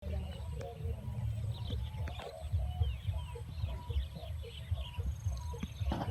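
Birds chirping with many short, quick calls, over a low, uneven rumble.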